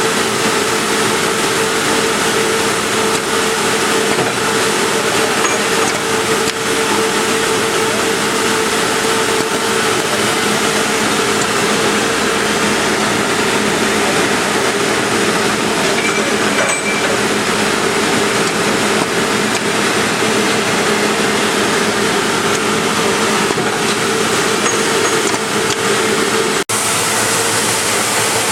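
Double disc grinder running steadily as it grinds connecting rods: a constant, even machine noise with a steady hum. The sound drops out for an instant near the end.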